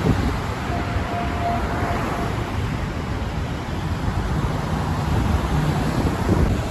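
Wind buffeting the microphone over steady traffic noise from the bridge roadway, with a faint brief tone about a second in.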